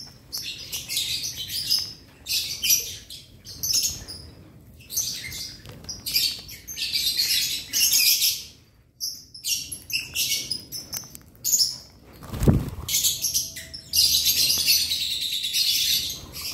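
Lovebirds chirping and chattering in an aviary, in repeated bursts of shrill, high chirps with short pauses between them. A single dull thump comes about twelve seconds in.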